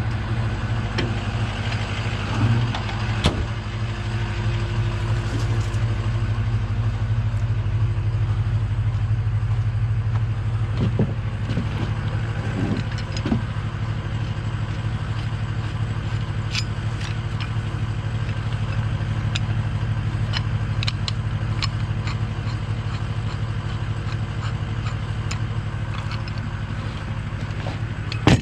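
Truck engine idling steadily, with scattered light clicks and a few knocks over it.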